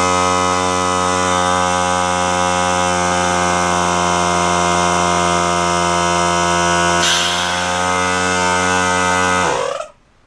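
Electric air compressor motor running with a steady hum, a short burst of air hiss about seven seconds in, then switched off and winding down, its pitch falling, near the end.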